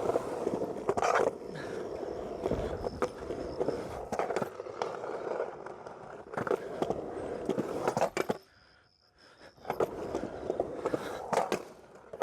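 Skateboard wheels rolling through a skate bowl, with repeated sharp clacks and scrapes of the board and trucks on the surface and coping. The rolling drops away almost to quiet for about a second near two-thirds of the way in, then resumes.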